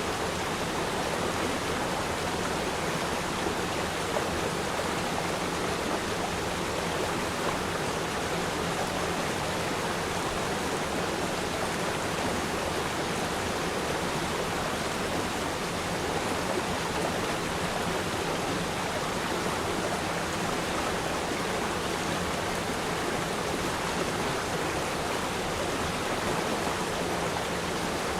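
River stream flowing, a steady, even rush of water.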